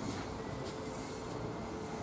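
A train running: a steady rumble and hiss with a faint steady whine.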